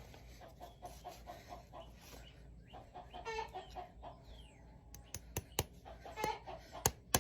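Chickens clucking in short repeated calls, joined about five seconds in by sharp knocks that become the loudest sound near the end.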